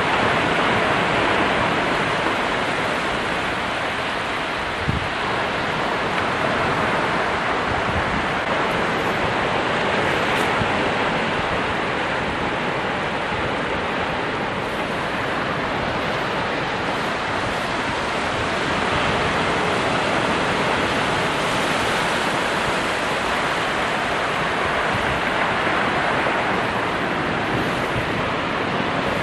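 Ocean waves breaking and washing on shore, a continuous rushing surf that swells and eases slowly, with a brief faint click about five seconds in.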